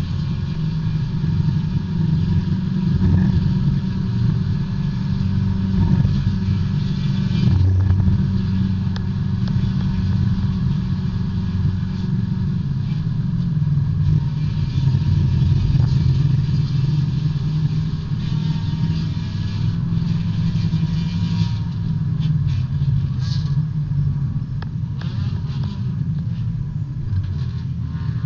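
A small B-Spec race car's engine heard from inside the cabin under racing load, its pitch rising and dropping several times with gear changes and corners, over a steady hiss.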